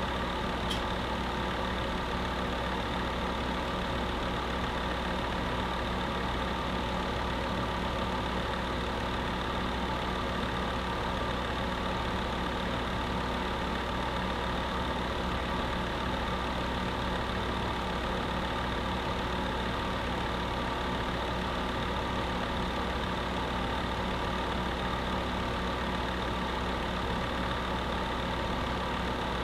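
Electric space heater running steadily: a constant fan hiss with a low, even motor hum.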